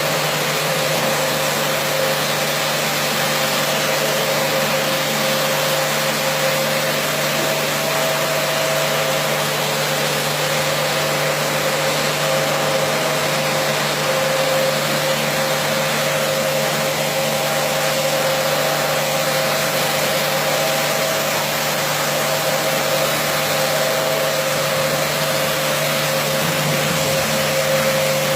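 Carpet washing machine running steadily: a continuous motor whine over an even hiss.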